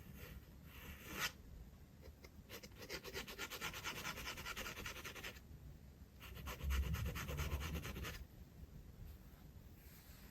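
Glass dip pen scratching across sketchbook paper in two long runs of quick, fine strokes, about three seconds and then two seconds long, after a short tap about a second in.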